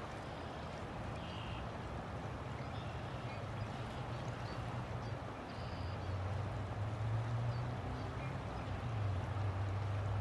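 River water flowing steadily, a continuous rushing with a low rumble underneath that grows a little louder about halfway through. A few faint, short high chirps are heard over it.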